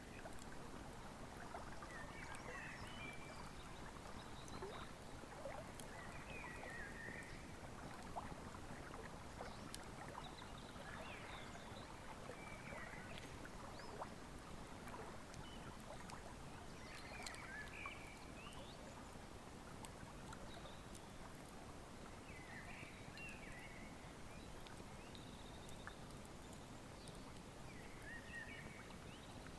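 Wood fire crackling with scattered sharp pops over the steady rush of a flowing river. A short high chirp comes in every four or five seconds.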